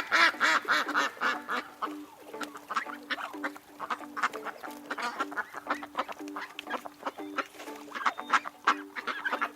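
Ducks quacking in a rapid run of short calls, thickest in the first second or so and more scattered after, over background music with a simple repeating melody that comes in about two seconds in.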